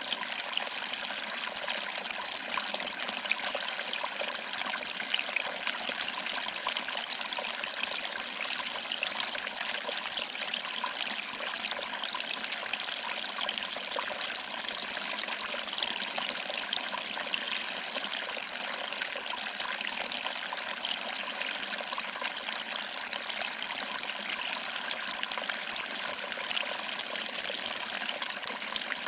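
Small waterfall: water trickling and splashing over rocks into a pool, a steady bright hiss with no lulls.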